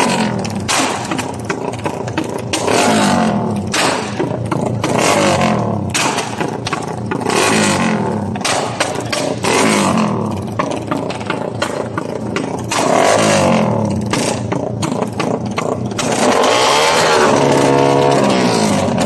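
Motorcycle engine revved hard in a rev-battle, its pitch climbing and dropping back in repeated blips about every two seconds. Near the end it is held at high revs for a few seconds.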